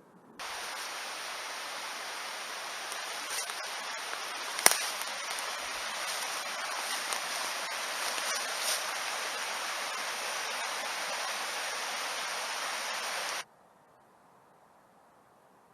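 Mountain stream rushing steadily; the sound begins abruptly and cuts off abruptly after about thirteen seconds. A single sharp click about four and a half seconds in is the loudest moment.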